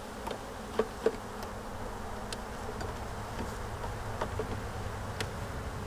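Honeybees buzzing steadily around an open hive, with a few light knocks and clicks of hive frames being handled; the loudest click comes about a second in.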